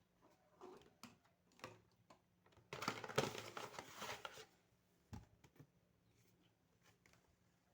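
Faint scattered clicks and knocks of objects being handled, with a louder rustle lasting about a second and a half, three seconds in.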